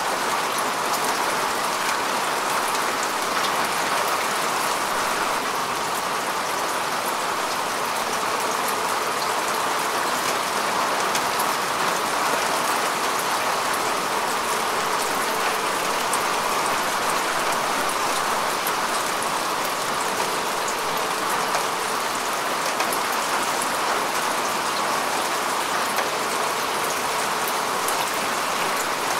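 Steady rain falling on grass and earth, an even patter of countless drops with no letup.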